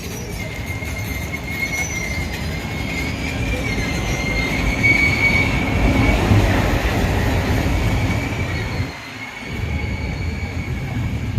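A passenger train moving on the rails: a low rumble with a steady, high wheel squeal that swells toward the middle and drops away briefly near the end.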